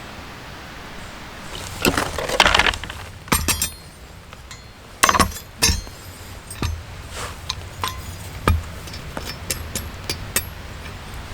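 Camping gear being handled: a brief rustle, then a string of irregular clinks and knocks as hard objects are set down and touch one another.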